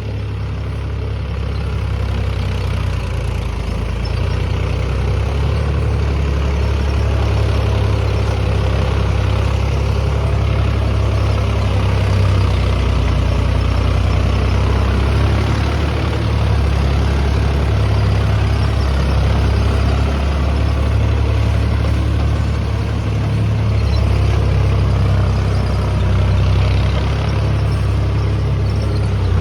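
Mahindra Yuvo Tech+ 405 DI tractor's diesel engine running steadily at low revs.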